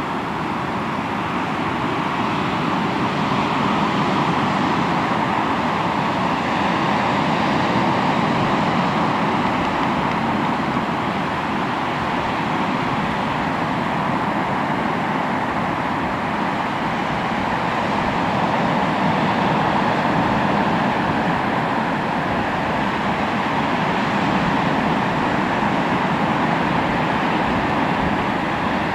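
Sea waves washing onto the shore in a continuous rush that swells and eases slowly.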